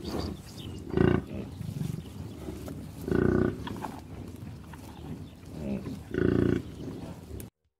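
Bison calling three times in deep, short grunting bellows, the first about a second in, the others about three seconds apart.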